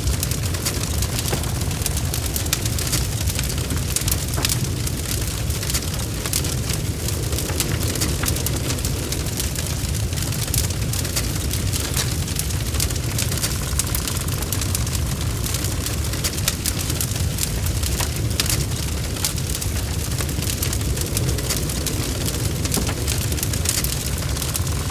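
Wood fire burning in a fireplace, crackling with many small sharp pops over a steady low rumble of the flames.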